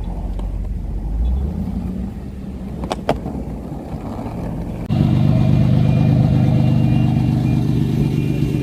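Car engine running at a steady idle, with two sharp clicks about three seconds in. Then, about five seconds in, a much louder, steady engine hum starts abruptly.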